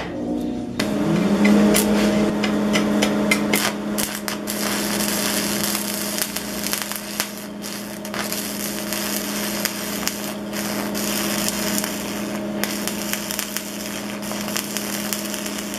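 AC buzz-box stick welder arcing with a 3/32 in. 7018 AC rod at about 75 amps. The arc strikes about a second in, then crackles and spits with irregular sharp pops over a steady electrical hum. At this setting the weld runs cold.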